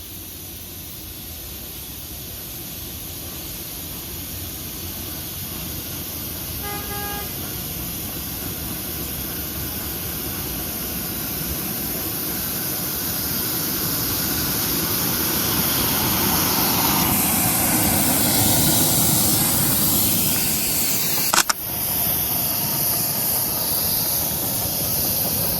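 1/8-scale live-steam Hiawatha locomotive running with a steady hiss and rumble that grows louder, with a short whistle toot about seven seconds in. There is a sharp click near the end.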